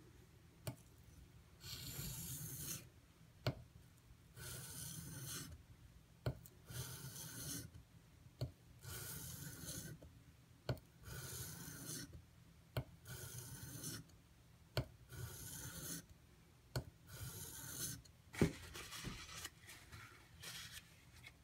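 Steel knife blade (AUS-8A tanto) being stroked across a Shapton Pro whetstone: about nine slow, scraping sharpening strokes roughly two seconds apart, each with a sharp click as the blade is set on the stone.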